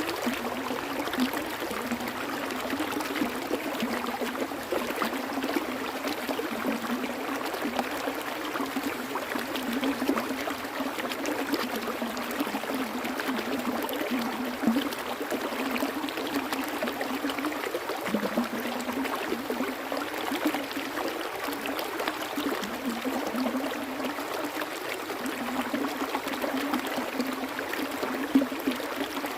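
Flowing water in a stream, a steady rush with irregular small splashes and gurgles.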